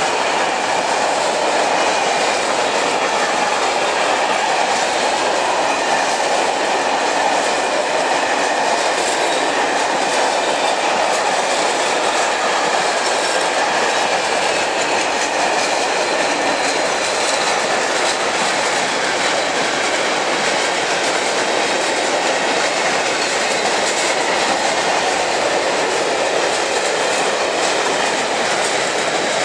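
Container freight train's loaded flat wagons rolling past at close range: a steady, unbroken rumble of steel wheels on the rails, with a faint thin high squeal from the wheels.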